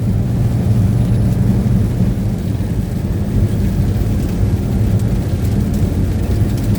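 Steady low rumble of a truck driving on a wet road, heard inside the cab, with faint ticks of rain.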